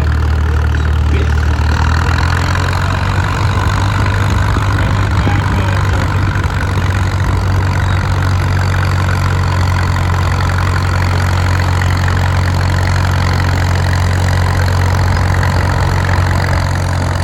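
Old tractor engine running steadily at an even low pitch.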